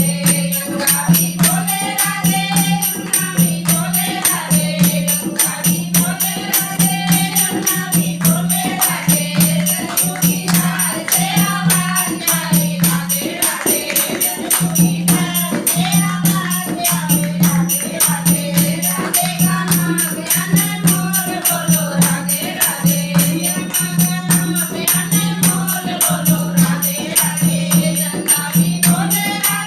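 Hindi devotional bhajan: voices singing a melody over a steady, even beat of dholak and jingling percussion.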